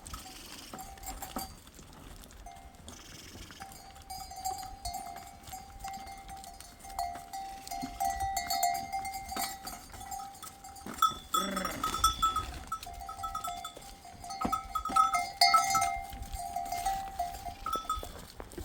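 Bells on a herd of sheep and goats, ringing on and off in a steady jangle as the animals move. There is a brief falling call about two-thirds of the way through.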